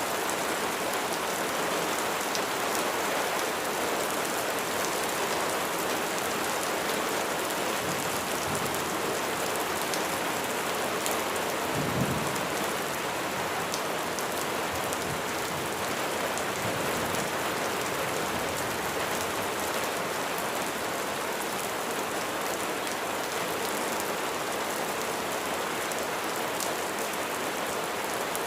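Steady rain falling, an even hiss of drops on surfaces. A brief low thump comes near the middle, with fainter low rumbles before and after it.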